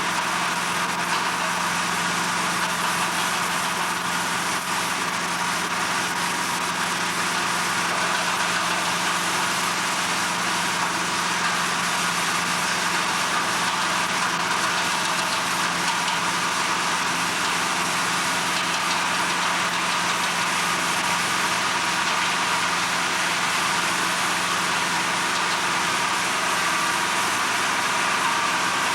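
Heavy machinery running steadily: a constant mechanical drone with a few fixed tones over a steady hiss, unchanging throughout.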